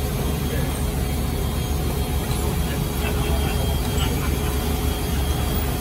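Steady low mechanical drone of engine-driven equipment running at the aircraft during cargo loading, with a faint steady hum over it.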